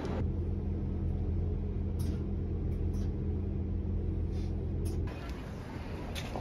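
Steady low rumble and hum of a moving train heard from inside the carriage, with a few faint clicks. About five seconds in it gives way to quieter outdoor noise.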